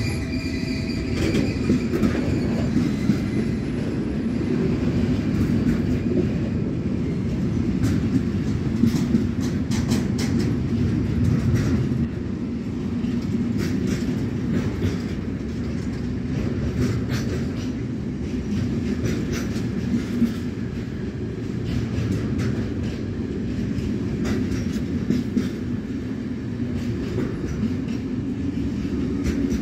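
Intermodal freight train of pocket wagons loaded with lorry semi-trailers rolling past: a steady heavy rumble from the wagons with many irregular clicks as the wheels pass over rail joints. A high wheel squeal dies away about a second in.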